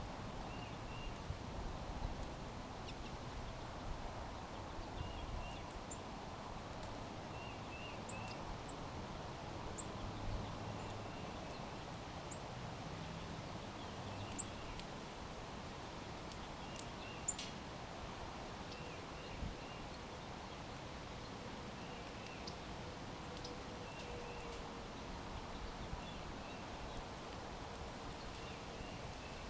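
Small birds at backyard feeders chirping: short calls in twos and threes repeat throughout, with a few sharp, high chips, over steady outdoor background noise.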